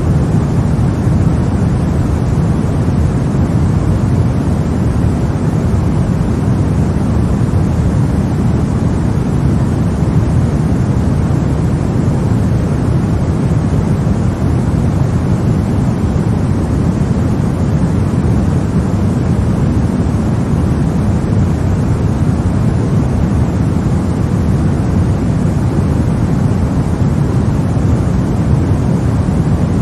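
Steady, unchanging baby-sleep white-noise track, a deep even rush with most of its weight low down.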